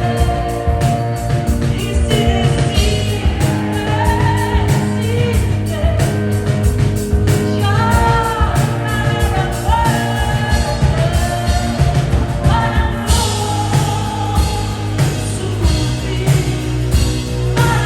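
Live band playing a song, a singer's voice over sustained instrument notes and a steady drum beat; the cymbals and high end get louder about thirteen seconds in.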